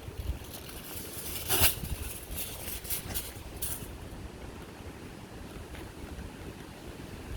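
Aluminium foil crinkling in a few short crackly bursts as it is folded around a pizza wrap, the loudest about one and a half seconds in. Wind rumbles on the microphone throughout.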